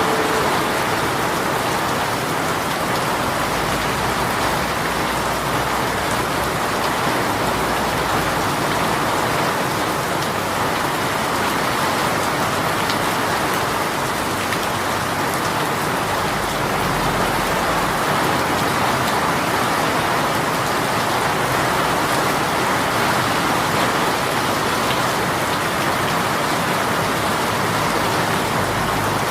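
Steady heavy rain shower falling on surfaces, an even hiss with fine scattered drop patter.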